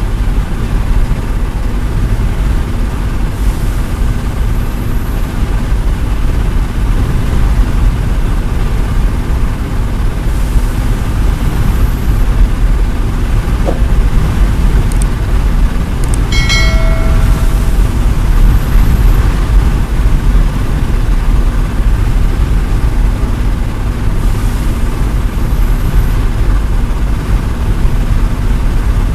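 Concrete pump truck's engine running steadily with a heavy low rumble; a brief pitched beep sounds about 16 seconds in.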